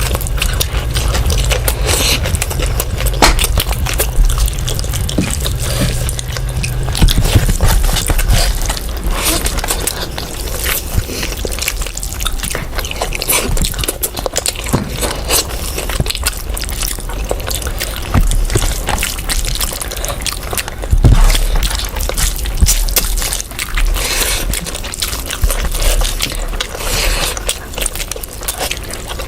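Close-up eating sounds of rice and curry: wet squelching, smacking and chewing, with many small clicks throughout.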